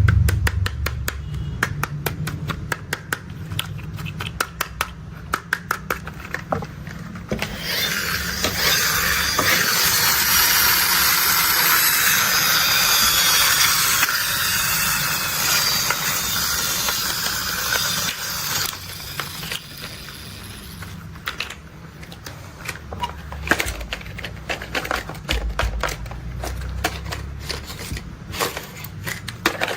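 Plastic toy construction vehicles being handled: rapid clicking and rattling. About seven seconds in, a dense hissing, scraping noise starts and lasts about ten seconds, then scattered clicks and knocks return over a low hum.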